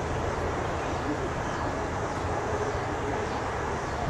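Amtrak Northeast Regional passenger train running along the tracks, a steady low rumble of wheels on rail.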